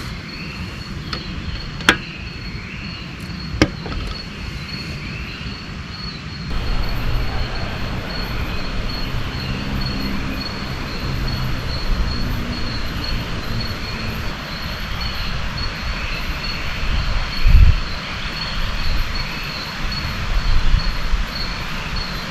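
Outdoor ambience: an insect trilling steadily on one high pitch over a low rumbling noise that grows fuller about six seconds in, with two sharp taps in the first four seconds.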